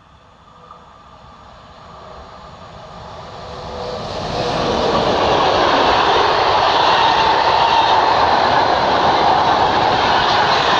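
French infrastructure train, hauled by BB 22300 and BB 64635 locomotives, approaching and passing close by. Its rumble swells over the first four seconds, then the stainless-steel coaches and flat wagons roll past with a steady, loud rolling noise on the rails.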